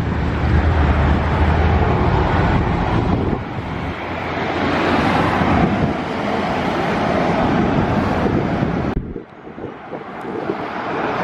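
Wind buffeting the microphone over the rumble of a passing vehicle, with a heavy low rumble at first; the low rumble drops away sharply about nine seconds in.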